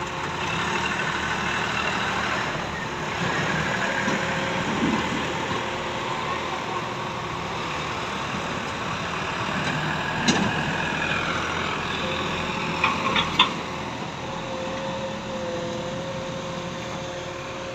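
Diesel engine of a JCB digging machine running steadily, with a sharp knock about ten seconds in and a few short clicks about three seconds later.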